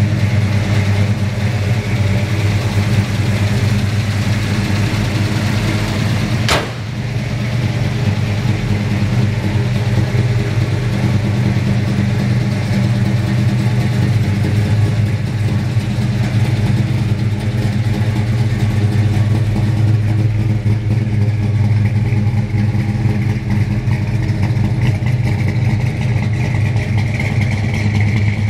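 1970 Ford Torino Cobra's 429 cubic-inch V8 idling steadily through its exhaust, with a single sharp click about six and a half seconds in.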